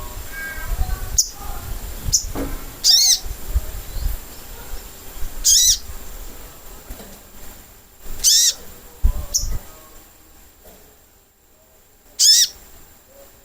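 Sogok ontong (sunbird) calling: four loud, short, high, sharp call notes spaced a few seconds apart. It is a lure call meant to make other birds answer.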